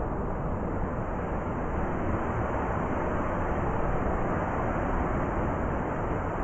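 Heavy blizzard wind: a steady, low rushing noise that holds an even level throughout.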